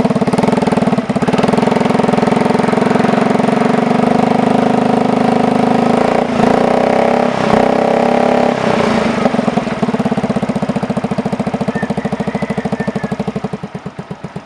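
Yamaha Mio 115 scooter's single-cylinder four-stroke engine running through a Nob1 Titan dual-sound aftermarket exhaust, idling with a steady exhaust pulse and a couple of short throttle blips about halfway through.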